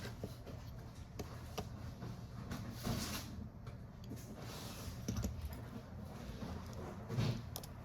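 Scattered light clicks and taps of small repair tools and phone parts being handled during a smartphone screen replacement, over a steady low hum.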